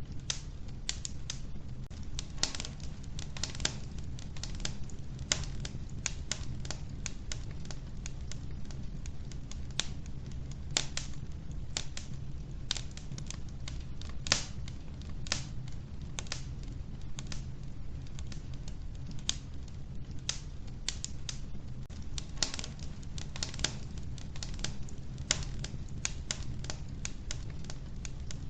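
Wood fire burning in a wood-burning stove: logs crackling and popping in irregular sharp snaps over a steady low rumble of the flames.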